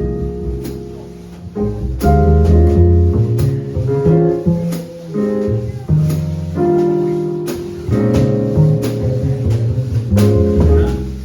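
A live jazz quartet plays with piano chords and a walking bass line under sharp drum and cymbal hits that come throughout.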